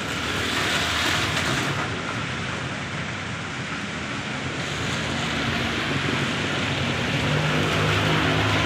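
Rain falling on a wet asphalt road and its puddles, a steady hiss. Near the end a vehicle drives past close by, its tyres splashing through the standing water over a low engine hum.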